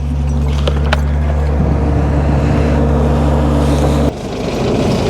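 Skid steer engine running steadily at a constant speed. About four seconds in the sound changes abruptly to a rougher low rumble.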